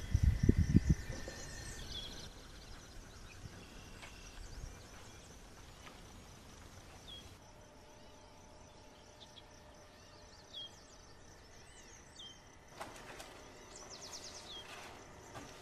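Quiet ambient background with a bird's short chirps every second or two. In the first second there are loud low rumbling gusts of wind on the microphone, and near the end sheets of paper and a card folder rustle as they are handled.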